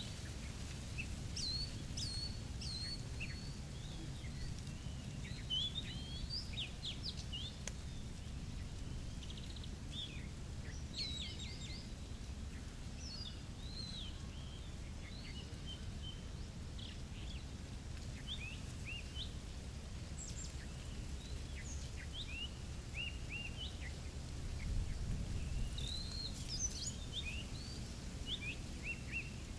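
Birds chirping and whistling in many short, varied calls, over a low steady rumble.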